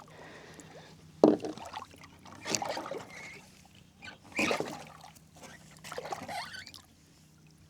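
Shallow water splashing and trickling in four or five short, uneven bursts a second or two apart, over a faint steady low hum.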